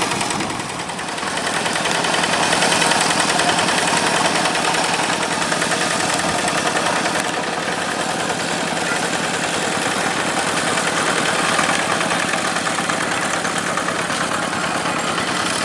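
Yanmar diesel engine of a paddy-field tractor running steadily, with a rapid, even pulsing beat.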